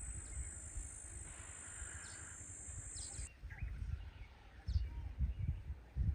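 Outdoor bush ambience: scattered short bird chirps over irregular low rumbling gusts, which grow stronger in the last couple of seconds. A steady high whine stops about three seconds in.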